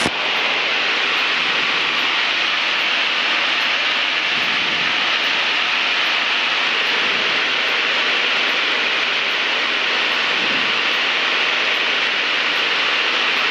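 Steady hiss of an aviation radio channel between air traffic control transmissions: an even, unbroken noise with no voice on frequency.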